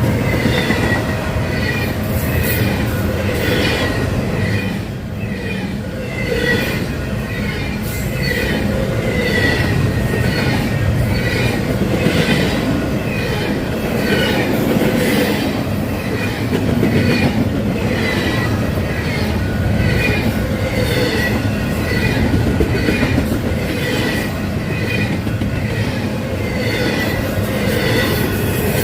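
Freight train cars rolling past, their wheels clicking over rail joints about once a second with squealing from the wheels, over a steady low rumble.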